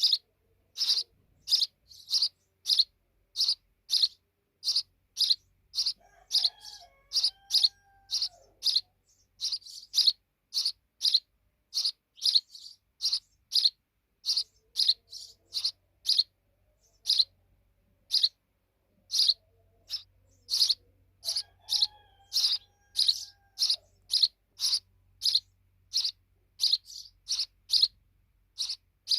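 A sparrow chirping over and over in short, sharp, high cheeps, about two a second, with a fainter lower sliding call twice.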